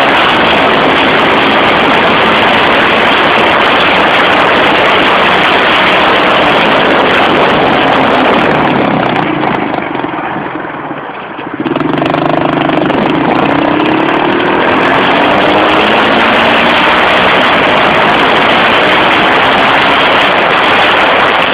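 110cc pit bike engine running hard at high revs, easing off about ten seconds in and then revving back up with a rising pitch.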